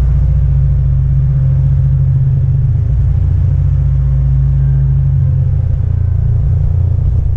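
An engine running at a steady speed, a loud, even low drone that does not change.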